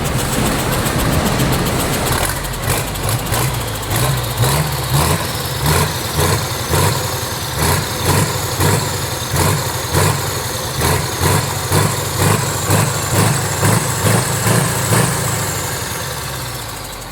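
Hino F17D twin-turbo diesel truck engine revved in quick repeated throttle blips, about one and a half a second, with the turbos' high whistle rising and falling with each blip. Near the end the blipping stops and the turbo whistle winds down in one long falling tone as the engine settles.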